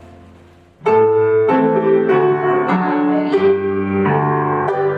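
Piano accompaniment for a dance lesson: after a fading note, a new phrase starts sharply about a second in and goes on in a steady run of chords over low bass notes.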